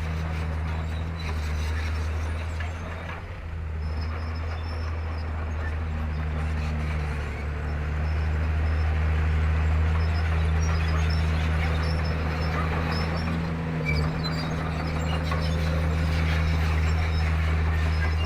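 Komatsu D31P crawler bulldozer's diesel engine running under load with a steady low drone. The engine eases briefly about three seconds in and falters for a moment near the end. Faint high squeaks sound over it.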